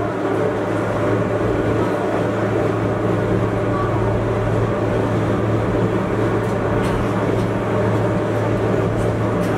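Gornergrat Bahn electric cog-railway train running steadily uphill, heard from inside the cab: a constant drone with a strong low hum and running noise, with no change in pace.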